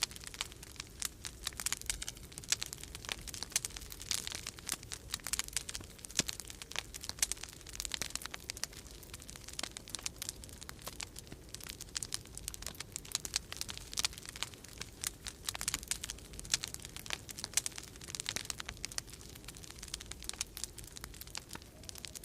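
Wood fire in a fireplace crackling, with frequent irregular sharp pops and snaps, over a low steady rumble of storm wind.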